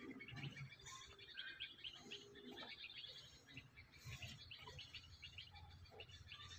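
Faint chirping of small birds, many short calls throughout, over a faint low rumble.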